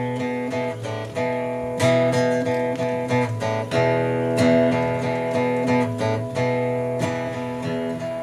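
Acoustic guitar strummed in a steady rhythm, playing a song's introduction before the vocals come in.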